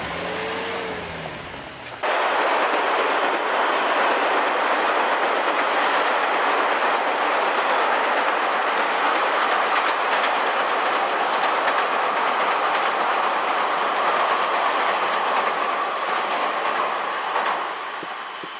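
Diesel limited-express train passing close by: a loud, steady rush of wheel and running noise that starts abruptly about two seconds in, holds for some fifteen seconds and fades near the end. Before it there is a short engine sound that glides in pitch.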